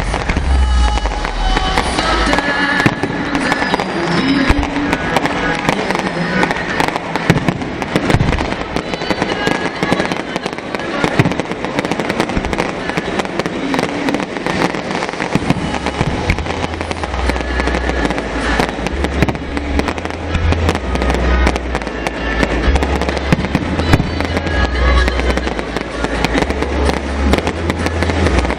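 Fireworks display: a dense, continuous run of bangs and crackling, over music with a deep bass line that drops out early on and comes back about halfway through.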